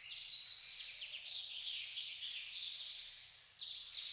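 A dense chorus of high-pitched bird chirps, starting abruptly out of silence and running on as a busy, overlapping twitter.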